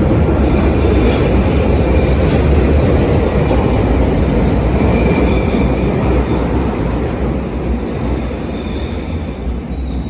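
London Underground 1995 Stock train pulling out of a tube platform, its wheels and motors making a loud rumble with a faint high wheel squeal. The rumble eases off over the last few seconds as the train moves away.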